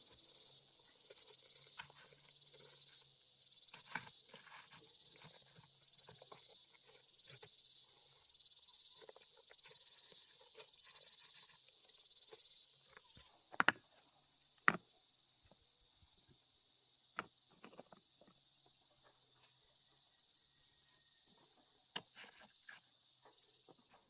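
Insects chirring steadily in a high, faintly pulsing drone, with scattered sharp clicks and knocks over it, the two loudest close together about halfway through.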